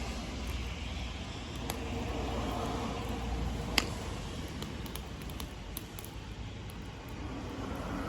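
Wood fire crackling: scattered sharp pops, with one loud pop about four seconds in, over a steady low rumble.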